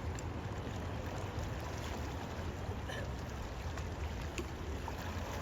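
Steady rush of river water, with a low wind rumble on the microphone and a few faint ticks.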